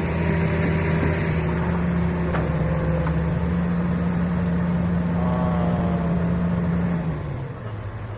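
Heavy diesel engine running at high revs, then settling to a lower, quieter speed about seven seconds in.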